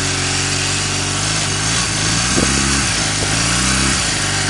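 A 2000 Honda Rebel 250's air-cooled parallel-twin engine running just after a cold start in sub-zero weather. It is briefly revved about two seconds in and settles back to idle near the end.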